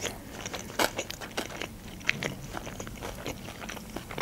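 A person chewing food close to the microphone, wet mouth clicks throughout with a few sharper bites about a second in and again near two seconds.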